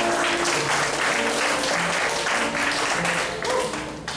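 Audience applauding, with music playing underneath; the clapping eases off near the end.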